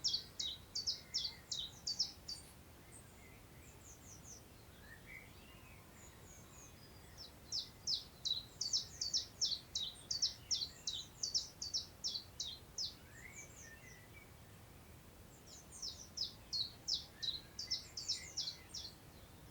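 A small songbird singing in three long bursts of quick, high, down-slurred notes, about three to four notes a second. Faint wind noise runs beneath.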